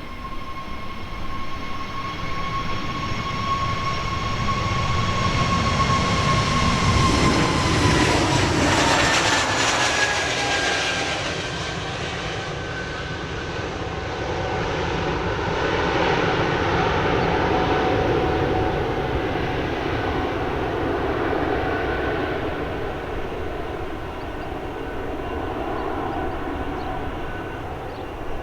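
Airbus A320neo's CFM LEAP-1A turbofans at high power as the jet passes, most likely on its takeoff run. A steady fan whine drops in pitch about eight to ten seconds in as it goes by, over a rumble that swells again and carries on.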